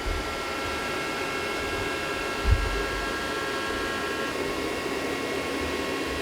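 Bridgeport Torq Cut 22 CNC mill homing its axes: a steady machine hum with several high whining tones from the servo drives. There is a low thump about two and a half seconds in, and some of the tones stop about four seconds in.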